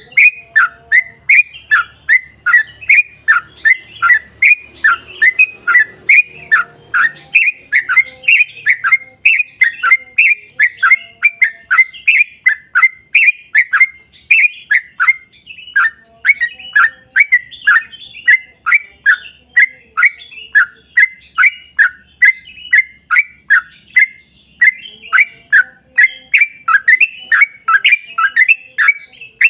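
Yellow-vented bulbul (trucukan) singing a long, unbroken run of rapid chirping notes, about three a second, each note sliding down in pitch.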